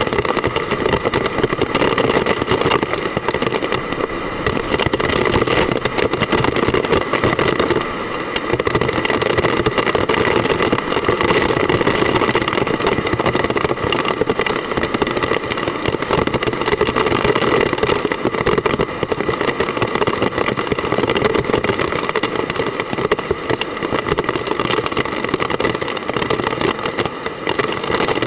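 Hard typhoon rain pouring down, a loud, steady rushing hiss that never lets up.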